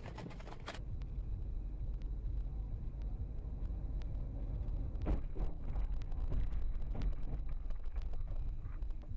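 Low, steady rumble of a car driving on the road, with a few short knocks about five and seven seconds in.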